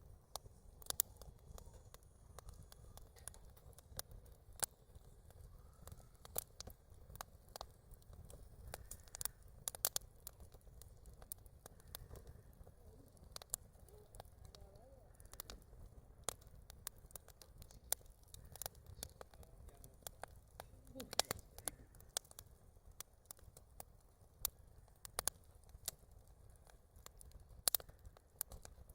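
Campfire wood crackling, with irregular sharp pops over a low steady rumble.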